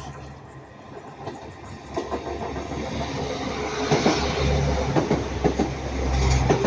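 A Northern Class 195 diesel multiple unit approaching and passing, its engine and wheel rumble growing louder from about two seconds in. Rhythmic wheel clicks over the rail joints start about four seconds in.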